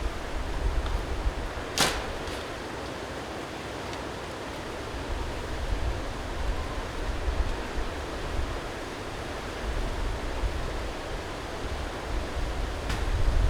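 Strong wind gusting against the microphone, a fluctuating low rumble under a steady rushing noise, with a single sharp click about two seconds in.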